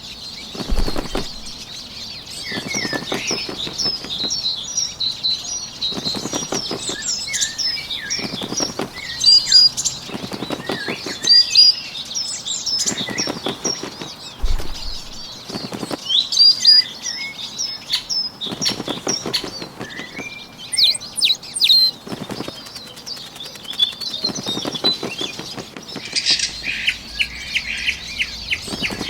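Bird wing-flapping sound effect: short bursts of fluttering wings about every two seconds, over continuous chirping birdsong.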